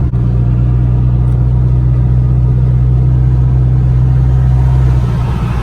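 Car engine running at a steady speed with a deep, even drone, its pitch shifting near the end.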